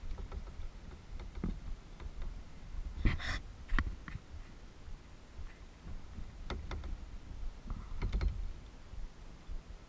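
Kayak paddling heard on a GoPro: a few sharp knocks and splashes from the paddle over a steady low rumble, loudest about three seconds in and again twice in the second half.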